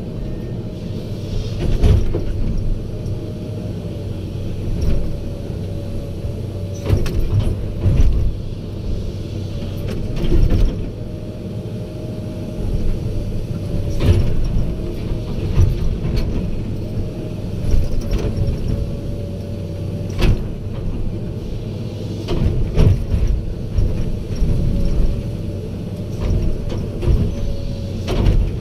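Excavator's diesel engine running under load with a steady hydraulic whine, while the machine works with irregular knocks, clanks and creaks every second or few.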